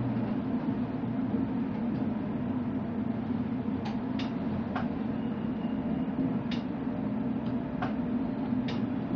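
Electric suburban train running along the line: a steady rumble, with several sharp clicks in the second half.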